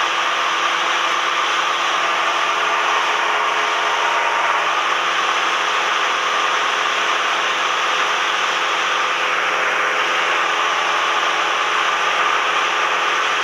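Cessna 172M's four-cylinder Lycoming O-320 engine and propeller droning steadily in flight, heard from inside the cabin, with no change in power.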